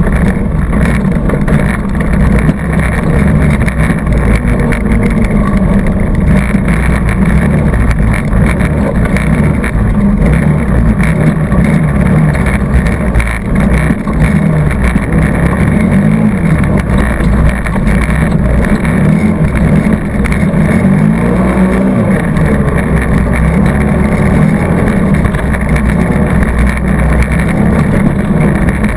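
ATV engine running hard on a trail ride, its pitch rising and falling as the throttle is opened and eased off. The sound is loud and continuous throughout.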